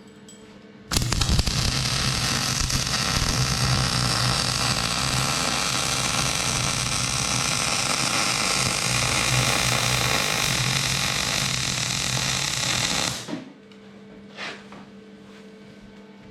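Electric arc welding: one continuous bead of about twelve seconds, a steady crackling hiss with a low buzz that starts suddenly and cuts off when the arc is broken.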